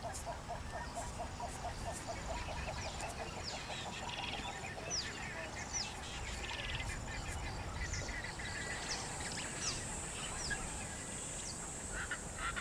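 Wild birds calling: a rapid series of low repeated notes in the first few seconds, then many short, high, falling chirps, with a steady high hiss joining about two-thirds of the way in.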